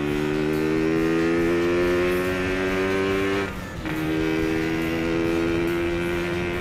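Yamaha RX-King's two-stroke single-cylinder engine pulling under acceleration, its pitch climbing steadily. About three and a half seconds in it dips briefly for a gear change, then climbs again from a slightly lower pitch.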